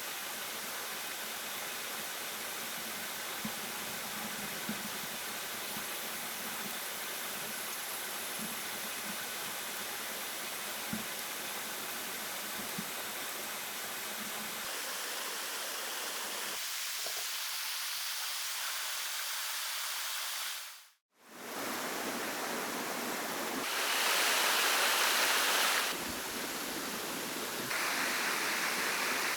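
Steady rushing of running water, like a forest stream. It dips to silence for a moment about two-thirds of the way through, then comes back louder in two stretches near the end.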